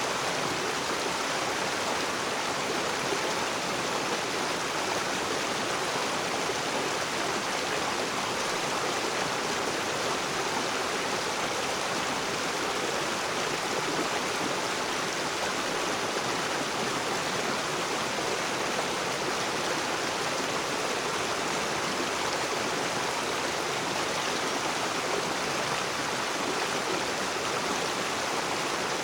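A river running over rocks: a steady, even rush of flowing water.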